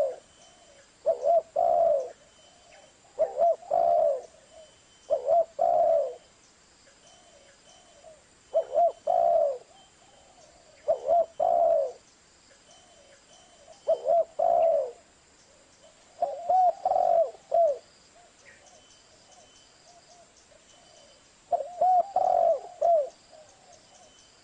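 Zebra dove (perkutut) cooing: about eight phrases of quick coo notes, one every two to three seconds, with a longer pause before the last phrase.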